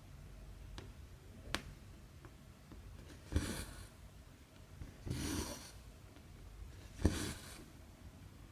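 Embroidery thread being pulled through cross-stitch fabric: three short swishes about two seconds apart, each starting with a sharp tap, with two small ticks in the first two seconds.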